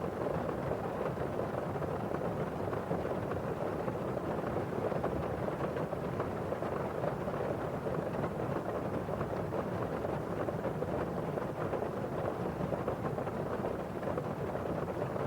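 Steady rain on a window: drops hitting the glass over the constant hiss of rain falling outside.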